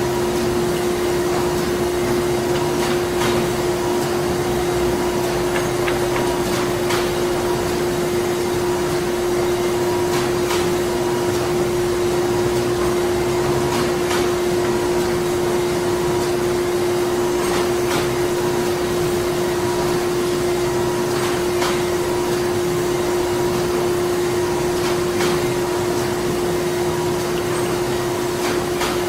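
Printing-factory machinery running steadily: a constant hum with one strong steady tone over an even mechanical noise, with faint clicks and knocks scattered irregularly through it.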